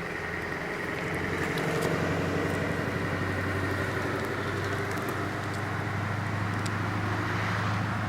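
A motor vehicle's engine running steadily as a low hum, growing louder over the first two seconds and then holding level.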